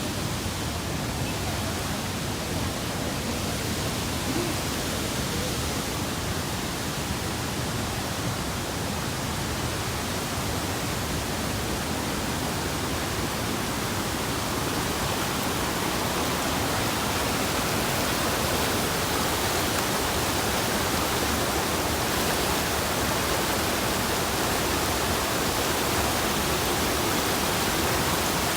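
Steady rushing noise of a waterfall, getting a little louder about halfway through.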